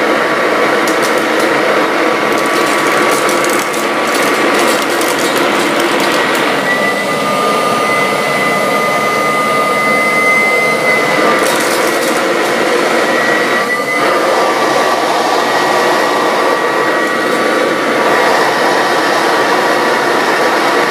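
1969 Kirby Classic upright vacuum cleaner running, its motor whining steadily; the whine steps up in pitch about seven seconds in and drops back about fourteen seconds in. Rapid clicking and rattling in the first few seconds and again about eleven seconds in as debris is sucked up through the machine.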